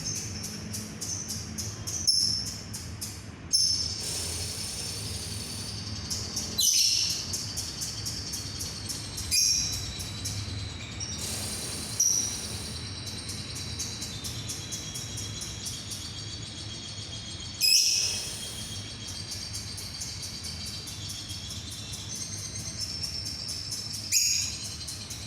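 Lovebird singing in long, rapid high-pitched trills, with seven sharper, louder calls at intervals of a few seconds, over a steady low hum.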